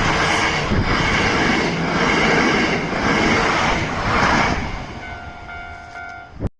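Electric commuter train passing close by, its wheels clattering in a beat of about one swell a second. It fades after about four and a half seconds, leaving a faint steady tone, and the sound cuts off with a click near the end.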